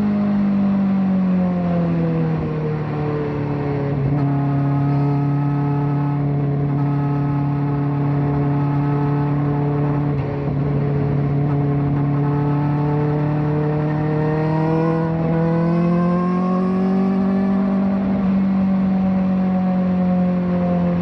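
Kawasaki ZX-4RR's 399 cc inline-four, fitted with a slip-on exhaust, running under way. Its pitch drops over the first couple of seconds, holds steady for a long stretch, then climbs again a few seconds before the end and eases off slightly.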